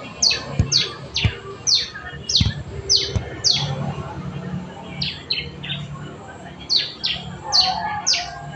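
Young ciblek (prinia) practising its song: a series of quick, downward-sweeping chirps, in two runs with a short pause around the middle.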